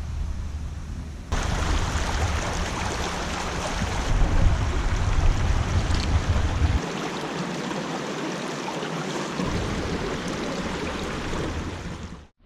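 Wind buffeting the microphone, then from about a second in a steady hiss of sea surf washing over a pebble beach, with wind rumble underneath; it cuts off suddenly at the end.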